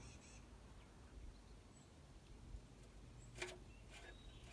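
Near silence: a faint low background hum, with a single faint click about three and a half seconds in.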